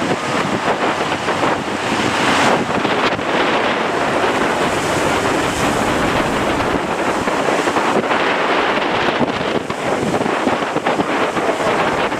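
Strong wind buffeting the microphone over the rush of heavy surf, a dense, steady noise that swells and eases.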